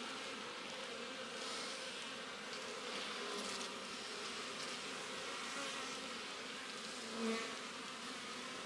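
Honeybees buzzing steadily from an opened hive of a strong colony, with a brief louder swell about seven seconds in.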